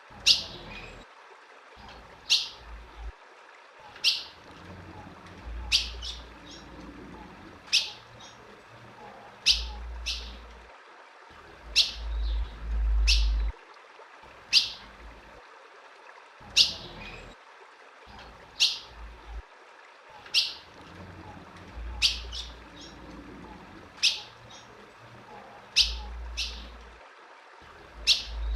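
Female ultramarine grosbeak (azulão) giving short, sharp downward chip calls about every two seconds, sometimes two in quick succession. A low rumble comes in briefly a few times, loudest in the middle and near the end.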